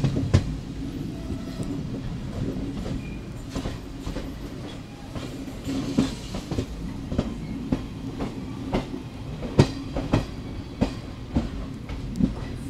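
Train wheels clacking over rail joints at uneven intervals as the train runs, over a steady low hum.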